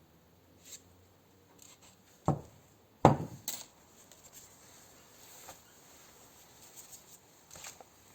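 Two sharp knocks about a second apart, the second the loudest, followed by a few lighter clicks and taps: hard objects such as tools or parts being handled and set down during engine work.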